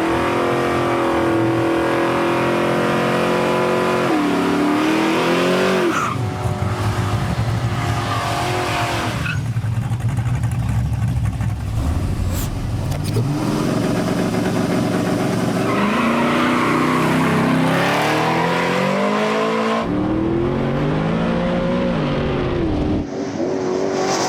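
Two 6.0-litre Oldsmobile Cutlass race cars at full-throttle acceleration in a drag race. The engine pitch climbs and drops several times as they shift gears.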